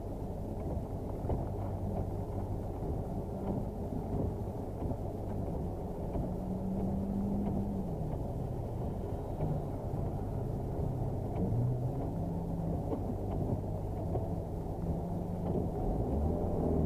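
Ford Focus engine idling, heard from inside the cabin, with a few light changes in pitch. Near the end the revs climb and the engine gets louder.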